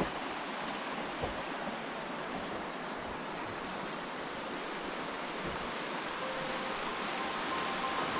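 Mountain river rushing steadily, an even hiss of flowing water with no breaks.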